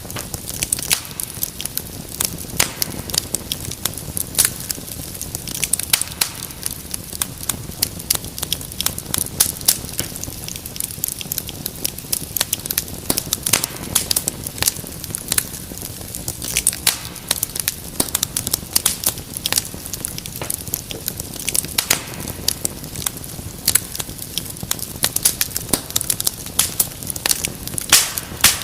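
Fireplace fire crackling, with many irregular sharp snaps and pops over a steady low rumble of burning.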